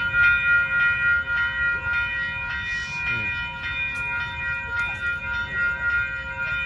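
Halted train idling, a steady whine of several high tones held over a low, uneven rumble.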